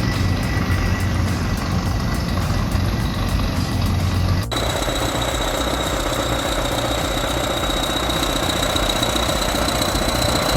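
Heavy machinery diesel engines running steadily. About four and a half seconds in the sound cuts abruptly to a different machine, which runs with a steady high whine over the engine noise.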